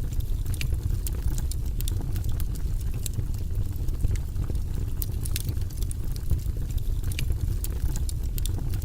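Fire burning in a fireplace: a steady low roar of flames with frequent sharp crackles and pops scattered throughout.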